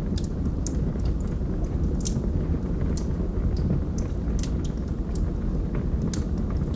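Wood fire in a fireplace burning steadily with a low rumble, and sharp crackles and pops from the burning logs at irregular intervals.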